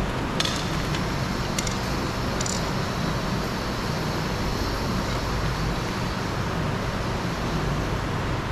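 Steady background traffic rumble with a few short clicks, about half a second, a second and a half and two and a half seconds in, from plastic door trim being worked loose around the handle.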